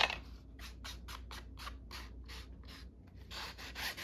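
Colouring in orange on an index card by hand, the tip scratching across the paper in quick back-and-forth strokes at about three to four a second. The strokes merge into one longer rub near the end.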